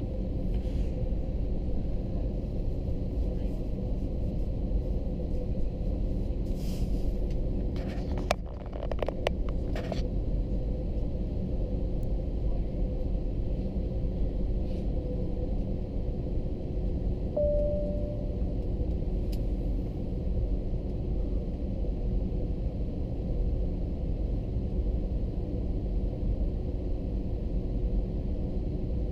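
Steady low rumble and hum of an Airbus A321-200 airliner heard from inside the cabin, its engines running, with a few clicks about eight to ten seconds in and a short faint tone a little past halfway.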